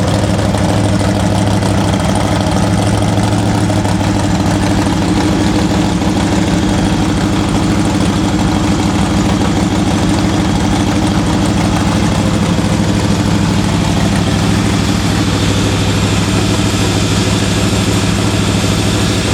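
1968 Camaro drag car's engine idling steadily, with a deep, even low hum and no revving.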